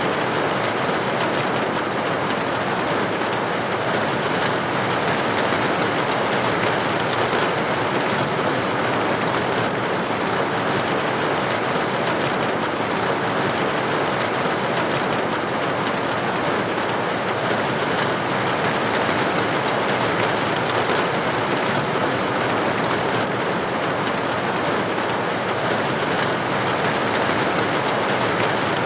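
Steady rain pattering on a window pane, a dense, even hiss of drops.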